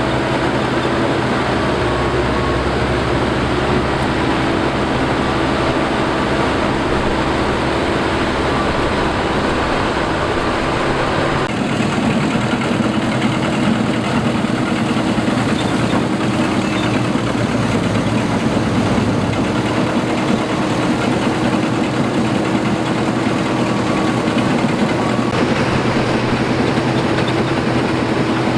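Combine harvester running steadily, its engine and machinery making a continuous drone with a steady hum; the tone shifts slightly about a third of the way through.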